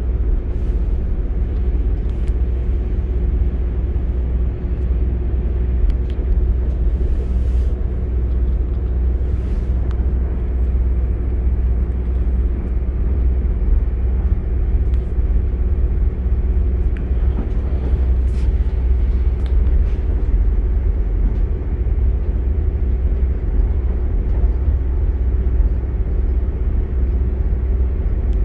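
Northern Class 195 diesel multiple unit running at speed, heard from inside the passenger saloon: a steady low rumble with a constant hum over it, and occasional brief clicks and rattles.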